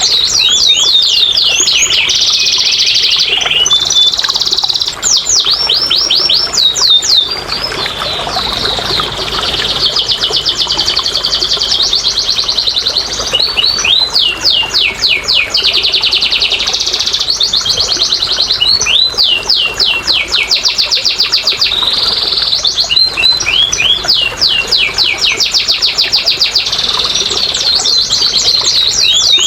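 Domestic canary singing a long, unbroken song of fast trills and repeated falling sweeps.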